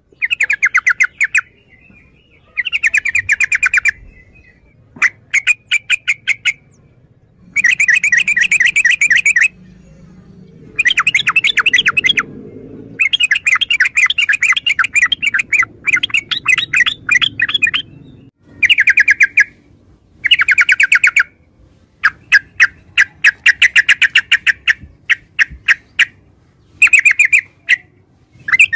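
Yellow-vented bulbul singing: loud, repeated phrases of rapid bubbling chatter, each lasting a second or two with short pauses between them.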